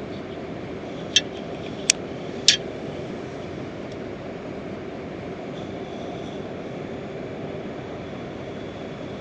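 Heavy rain falling steadily, a dense low rushing hiss, with three sharp clicks close together a little over a second in.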